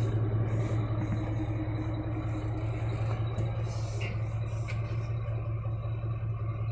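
Jeep V8 engine running at low, steady revs as the SUV crawls over rocks, a steady low hum.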